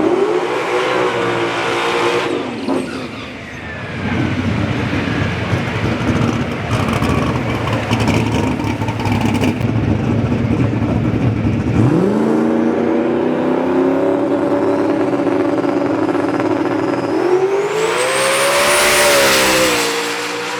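Drag racing car engine revving and running loud. The pitch climbs about twelve seconds in and holds steady, then climbs again near the end with a loud hissing rush.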